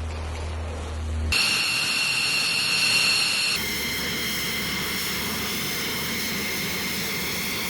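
Fighter jet engines running, a steady high whine over a roar, in spliced clips. The sound cuts abruptly about a second in, from a low hum to the jet whine, and changes again after about three and a half seconds.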